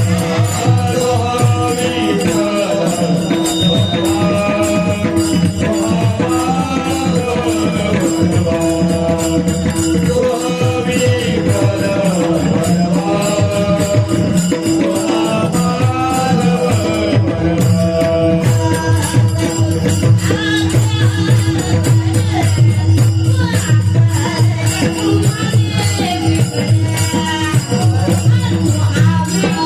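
Marathi Varkari kirtan music: a sung devotional melody over steady held tones, with fast, even jingling metal percussion throughout.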